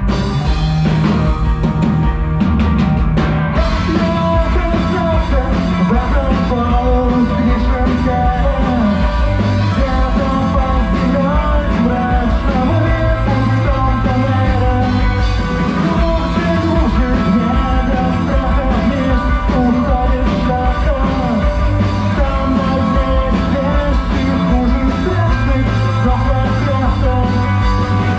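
Live rock band playing a song at full volume, with a dense mix of instruments and many sharp drum-like hits.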